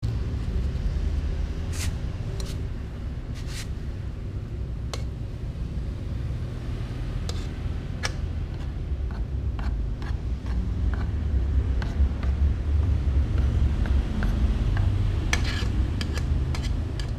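Cats eating from bowls: scattered clicks and taps of food and bowls, coming more often near the end, over a steady low rumble.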